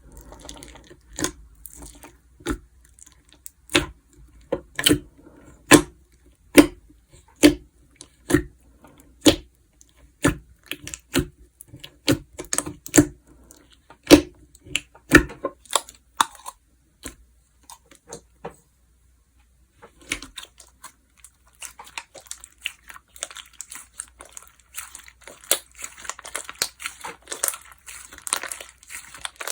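Slime being pressed and squished by hand, giving sharp popping clicks about once or twice a second. After a pause of about two seconds, a denser run of fine crackling and crinkling follows.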